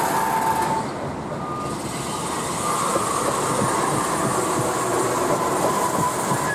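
Freight train of pocket wagons carrying lorry semi-trailers rolling past close by: a steady rumble of wheels on rail with light clacks over the joints, and thin high squealing wheel tones that come and go.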